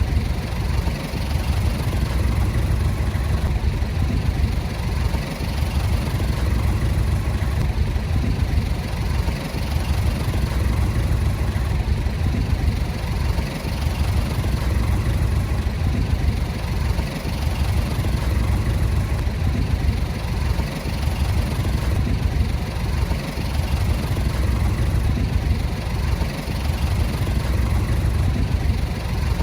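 Heavy-equipment diesel engine running steadily, its sound mostly low-pitched.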